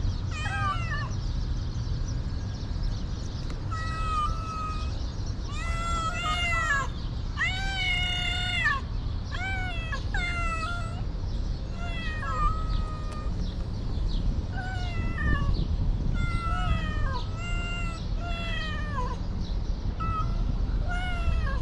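A stray cat meowing over and over, about one call a second, each call rising then falling in pitch, with one longer, louder meow about eight seconds in. A steady low rumble runs underneath.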